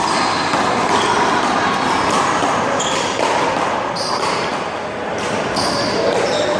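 A small rubber handball being struck and bouncing during a one-wall rally: about six sharp smacks at uneven intervals, each with a short high ring, over a steady background hiss.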